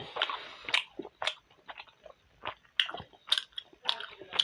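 A person chewing and biting mouthfuls of steamed momo dumplings, close to the microphone, with sharp irregular mouth clicks several times a second.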